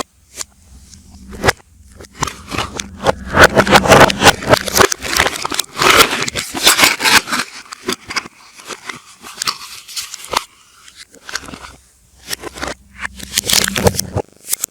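Bars of soap being unwrapped: the packaging crinkles, crackles and scrapes in a dense run of rustles and clicks, heaviest in the first half, with the sound played in reverse.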